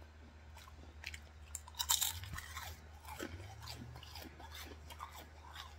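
A person chewing crunchy food with the mouth close to the microphone: many small crunches and mouth clicks, with a louder crunch about two seconds in.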